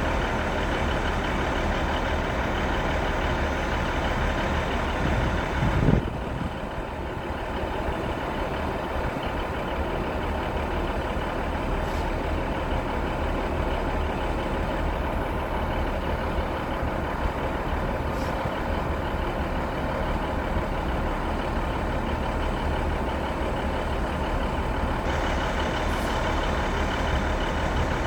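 Steady engine hum of a train idling at a station platform, with a short low thump about six seconds in.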